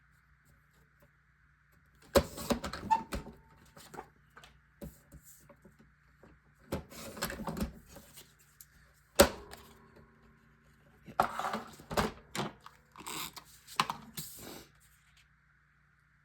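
Paper being handled and cut to size on a craft table: several bouts of rustling and scraping, with sharp clicks, the loudest about nine and twelve seconds in.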